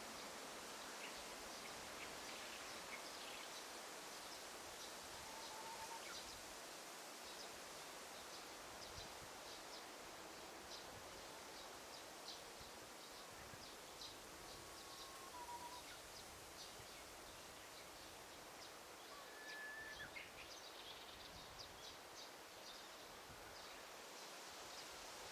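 Faint daytime forest ambience: a steady soft hush with many small bird chirps scattered throughout, and a few brief whistled bird notes, one about six seconds in, one near the middle and one about twenty seconds in.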